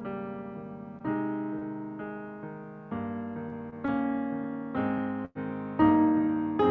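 Piano playing slow chords, each struck and left to fade before the next, about one a second. The sound cuts out for an instant just after five seconds in.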